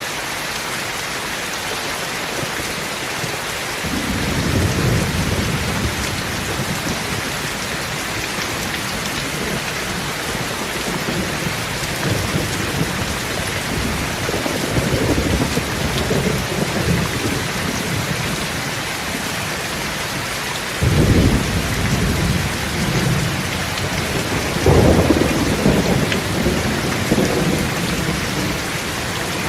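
Steady rain with thunder rumbling several times, the loudest peal starting suddenly about two-thirds of the way through and another following a few seconds later.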